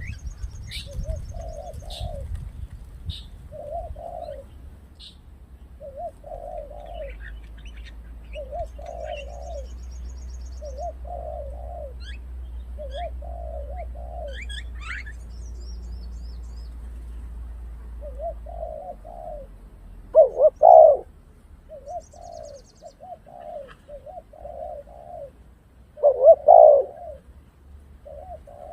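Spotted dove cooing over and over, a short phrase every second or two, with two much louder coos in the second half. Small birds chirp faintly in between.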